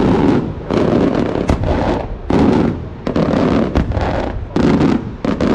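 Traditional Maltese cylinder firework shells bursting overhead in quick succession, a loud bang about every second, each followed by a rolling rumble.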